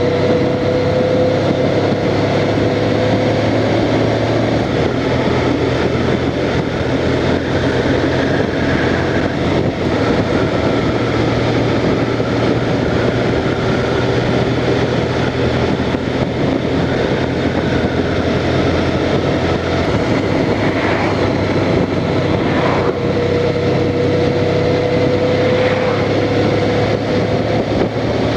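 Honda Crosstourer's V4 engine running steadily while riding at road speed, under a constant rush of wind and road noise. A faint whine rises slowly near the start and again in the last third.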